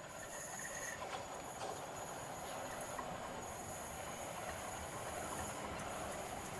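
Electric multiple-unit train running along the track, a steady rolling noise that grows a little louder about a second in.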